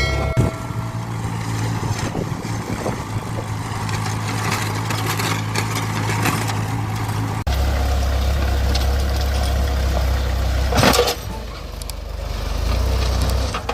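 Mahindra 575 DI tractor's diesel engine running steadily. Its sound changes abruptly about halfway through, and a short loud sound that rises and falls comes near the end.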